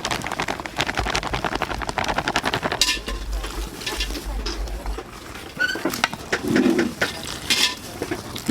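Clattering and clinking of metal kitchen utensils and dishes: a rapid run of clicks over the first three seconds, then scattered knocks and clinks.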